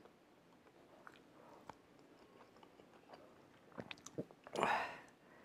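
A man chewing a Carolina Reaper chicken wing, with faint wet mouth clicks and smacks, then a short, loud, breathy hiss near the end.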